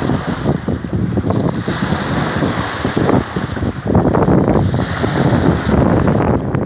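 Choppy Lake Ontario waves crashing and washing against the shore, with hissing surges about two and five seconds in. Gusty wind buffets the microphone throughout, loud and rumbling.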